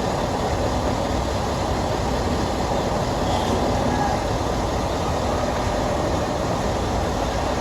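Mercedes-Benz truck's diesel engine running steadily.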